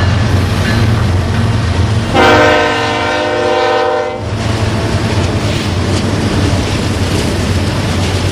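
Train running with a steady low rumble. About two seconds in, its locomotive horn sounds one chord for about two seconds, the loudest sound here.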